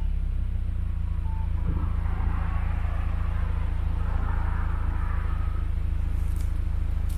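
Car engine idling steadily through an aftermarket EXAS EVO Tune exhaust, a deep low rumble, during a cold-morning warm-up as the idle settles. The rumble eases slightly right at the start.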